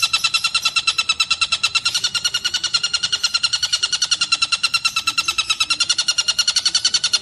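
Tengkek buto kingfisher calling in a fast, unbroken rattling trill of about ten to twelve sharp, high notes a second.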